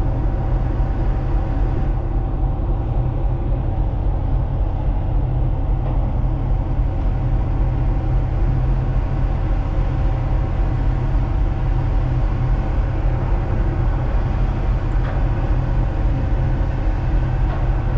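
Steady low rumble of a tanker's running machinery, with a constant hum over it.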